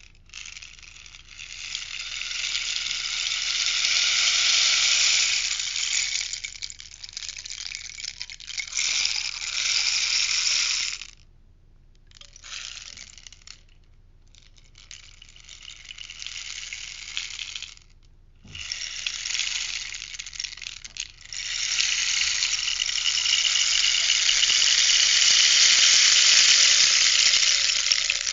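Rainstick being tipped, its fill trickling down inside with a rattling hiss like falling rain. It comes in several pours: a long one first, a few shorter ones with brief pauses around the middle, then another long pour near the end.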